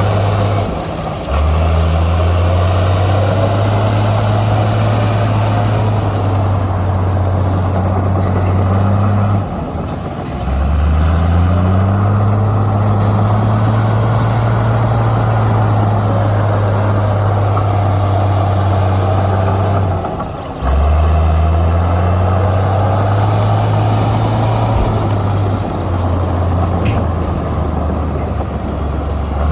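Heavy diesel engine of a Komatsu bulldozer working under load, running steadily with the revs dipping and climbing back up three times, about every ten seconds.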